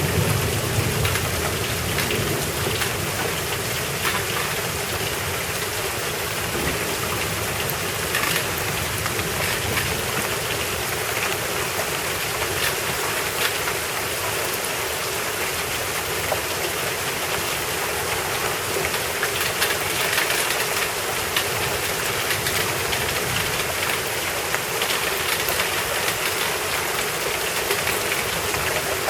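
Steady rain falling and pattering on surfaces during a thunderstorm. The tail of a thunder rumble dies away about a second in.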